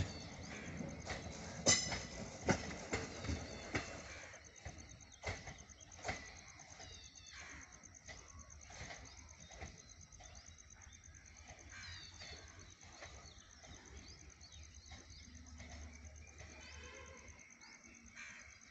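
Passenger train coaches clattering over the rail joints as the train moves away, the clicking loudest for the first few seconds and then fading into the distance. Faint bird chirps come through near the middle and toward the end.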